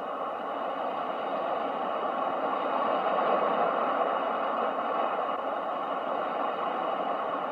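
Ocean surf: a continuous rushing wash of waves that swells about three seconds in and then slowly eases.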